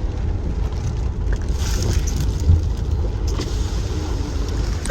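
Car driving along a flooded street: a steady low rumble with a hiss of water from the tyres, which swells for a moment about two seconds in.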